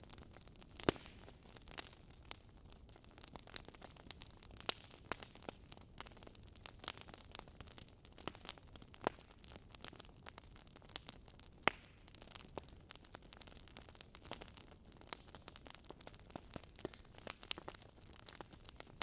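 Wood fire crackling in a fireplace: irregular sharp pops and snaps over a soft steady hiss, with louder pops about a second in and again near twelve seconds.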